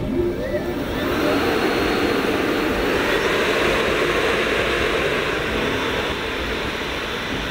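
Engines of a large RC Boeing 777X model running: a whine rises in pitch in the first second, then settles into a steady rushing noise with a thin high whine over it.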